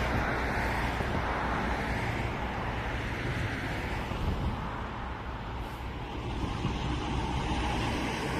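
Steady road traffic noise, cars running along a nearby street, with a low rumble.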